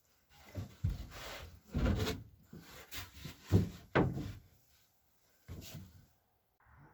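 Handling noises: a series of about five knocks and scraping rubs, the loudest around three and a half to four seconds in.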